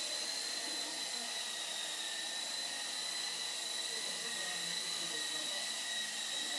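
A steady, high-pitched whine of a small electric motor over a constant hiss, holding one pitch without change.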